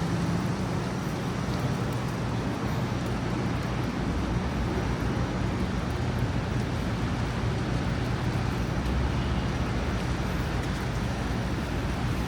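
Steady city street traffic noise with a low engine hum running throughout.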